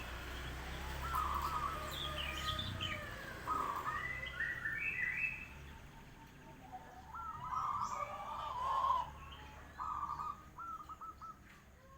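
Songbirds singing: repeated short phrases of quick, stepped chirps, with several phrases overlapping and pausing now and then.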